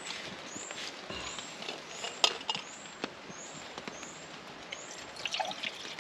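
A small bird repeating a thin, high, slurred call about twice a second, over a steady hiss of rain with scattered sharp taps, the loudest a little over two seconds in.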